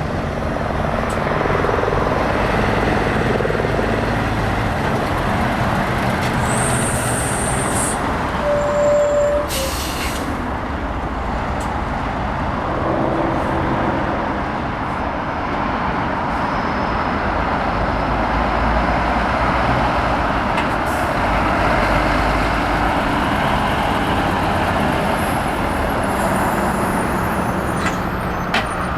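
Heavy diesel trucks running and passing at close range, with a short sharp hiss of air brakes about ten seconds in.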